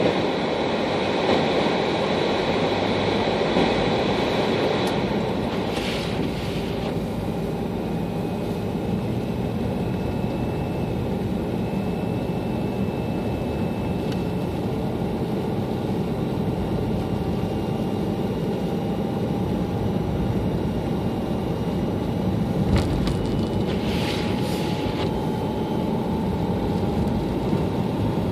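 Steady car road and engine noise while driving, a continuous rumble with a faint whine that slowly rises in pitch. A few brief ticks occur about six seconds in and again near the end.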